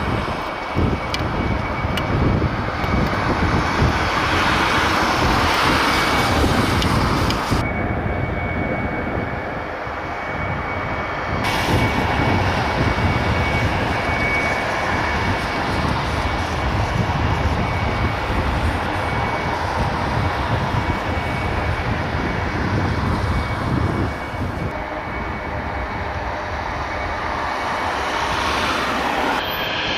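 Jet aircraft engines running: a steady high whine over a broad rumble.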